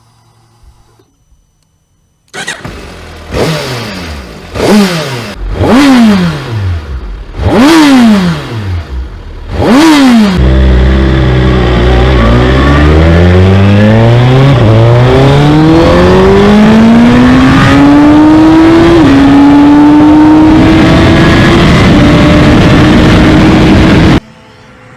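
Suzuki Hayabusa's 1,340 cc inline-four engine comes in about two seconds in and is revved up and down four times. It then pulls in one long, steadily rising acceleration with a brief dip in pitch near the end, and cuts off abruptly.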